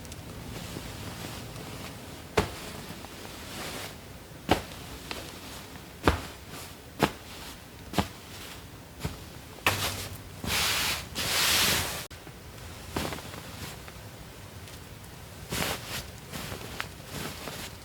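Quiet room with scattered single light clicks and taps, and about ten seconds in a loud hissing rustle lasting two to three seconds, in two parts.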